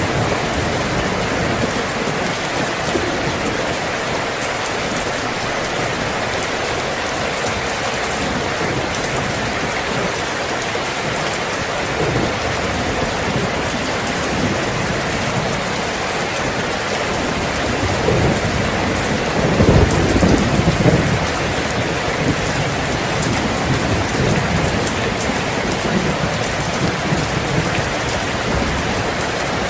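Steady rain falling, with a low roll of thunder rumbling about two-thirds of the way through.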